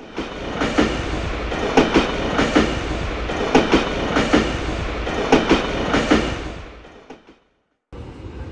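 Train wheels clattering over rail joints in a steady clickety-clack of paired beats, fading away near the end; after a brief gap, the quieter steady hum of a subway platform.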